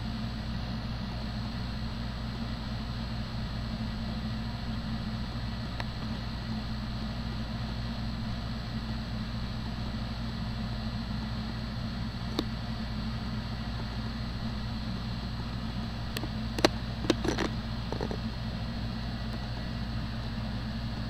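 Steady low engine hum with a hiss over it, as from inside a stationary vehicle with its engine idling. A single sharp click comes a little past halfway, then a quick cluster of clicks and knocks later on.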